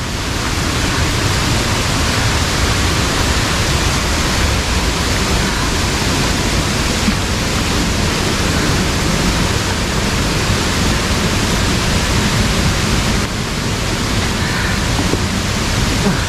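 Steady rushing of water over rocks, a constant roar of noise with no breaks.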